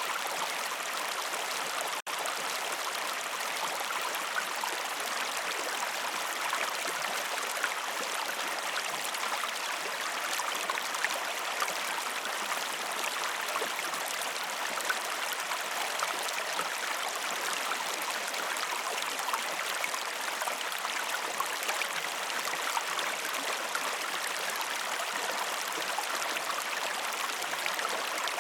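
Steady rush of flowing water, like a brook, with small splashes and trickles throughout; the sound drops out for an instant about two seconds in.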